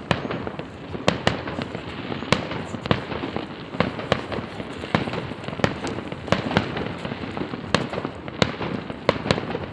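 Fireworks display: sharp bangs at irregular spacing, about two or three a second, over a continuous background of overlapping distant bursts.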